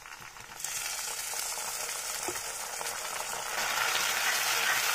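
Chopped tomatoes tipped into hot mustard oil in a kadhai: a sudden sizzle starts about half a second in and settles into steady frying. It grows a little louder later on as a spatula stirs the tomatoes through the oil.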